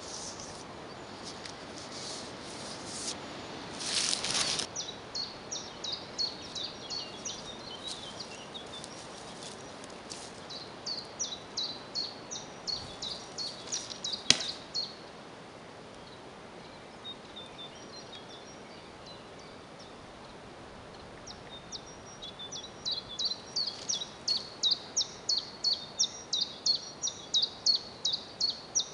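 A songbird singing runs of short, high repeated notes, about three a second, that stop for a while mid-way and start again. Near the start there is rustling handling noise, and about fourteen seconds in a single sharp click: an atlatl launching a dart.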